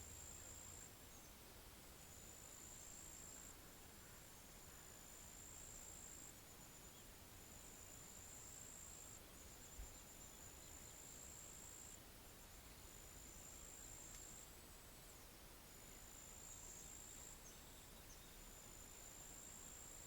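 Faint outdoor ambience with a high, thin insect trill repeating in bouts of about two seconds, separated by short pauses. A brief low thump about halfway through.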